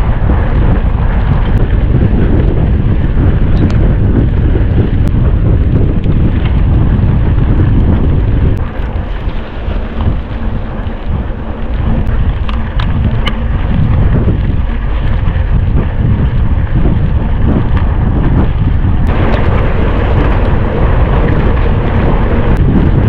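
Wind buffeting the microphone of a camera carried by a mountain biker while riding, a loud, steady rumble that eases for a few seconds about a third of the way through, with a few sharp clicks from the bike and trail.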